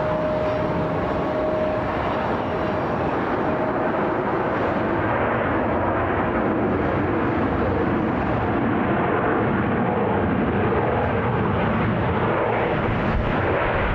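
Jet airliner engines of a United Airbus A320-232 (IAE V2500 turbofans) arriving on the runway: a steady rushing jet noise, with a thin whine that fades out in the first few seconds.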